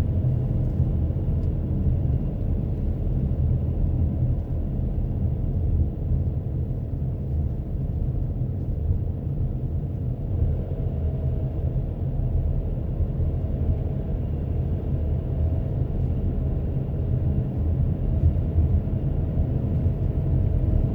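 Steady low rumble of a car driving: road and engine noise heard from inside the moving car.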